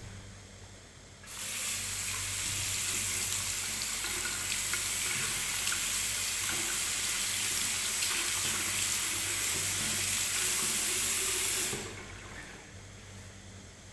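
Tap water running as the washing machine's drain filter is rinsed clean. It starts about a second in, runs steadily for about ten seconds and cuts off suddenly near the end.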